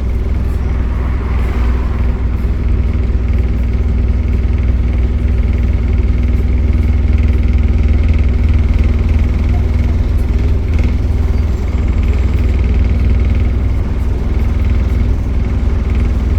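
Optare Solo bus running steadily: a deep, even diesel rumble with a steady high whine above it, the noise of the engine's cooling fan.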